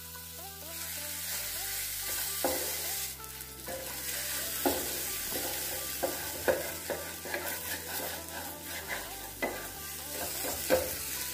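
Chopped tomatoes sizzling in hot oil and spice masala in a non-stick kadhai, stirred and scraped around the pan with a spatula in irregular strokes over a steady sizzle.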